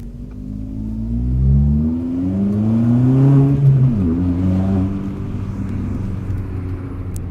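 Fiat 500 engine through its exhaust, revved up twice with rising pitch, dropping back sharply about four seconds in, given one short blip, then settling to a steady idle.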